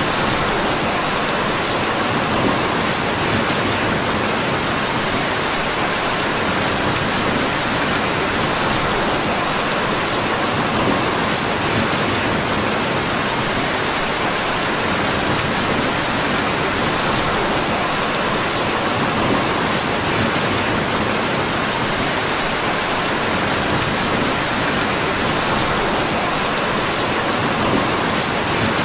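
Steady rain falling, an even unbroken hiss at a constant level.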